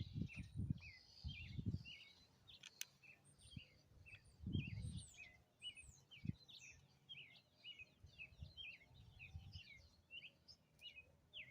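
Faint birdsong: small birds chirping steadily in short downward notes, about two a second. Low rumbles of wind on the microphone come and go, strongest at the start and again about four and a half seconds in.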